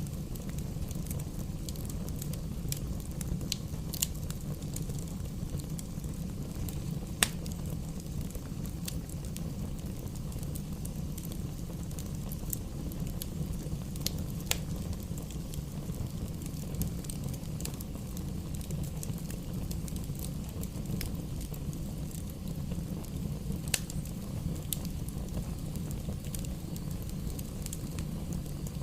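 Wood fire burning in a fireplace: a steady low rumble of flames with scattered sharp pops and crackles, a few louder snaps among them.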